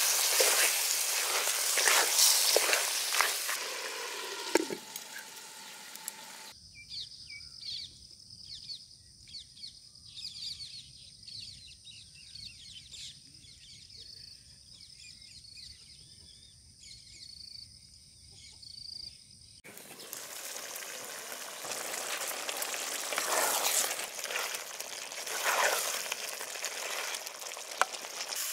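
Duck curry frying and sizzling in hot oil with masala, giving way for about thirteen seconds to a quiet stretch of small birds chirping before the sizzling returns.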